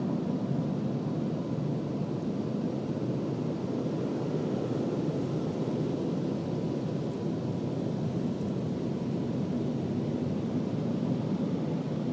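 Automatic car wash machinery running: a steady, low rushing noise with a faint thin hum above it.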